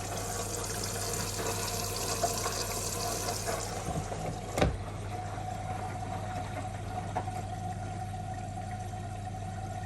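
Miele W1 washing machine running with a steady hum, and water hissing in for the first three or four seconds. A single sharp knock comes a little after four and a half seconds.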